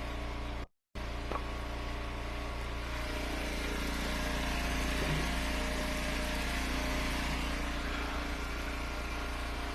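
Engine of a hydraulic firewood splitter (Eastonmade Ultra) running steadily at idle. The sound cuts out briefly about a second in.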